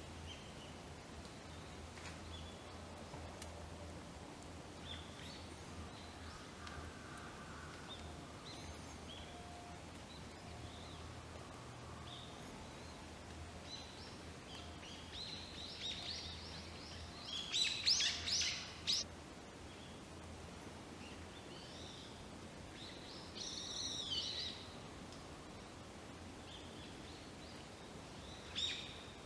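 Small woodland birds calling: scattered high chirps, with a loud run of calls around the middle and a shorter one a few seconds later, over a steady low hum.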